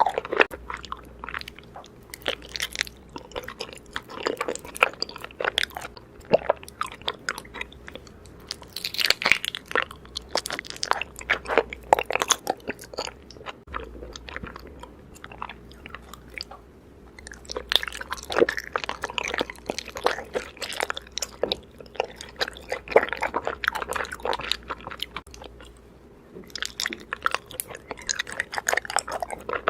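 Raw honeycomb being bitten and chewed, in runs of quick sharp clicks, with two short lulls, one about halfway through and one a few seconds before the end.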